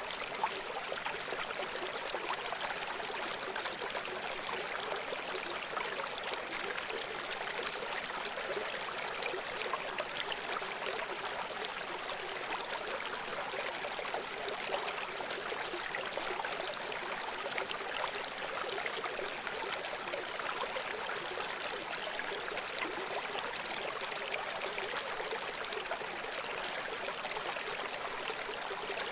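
Running stream: a steady rush of flowing water, its sound lying mostly in the middle and upper range, with little bass.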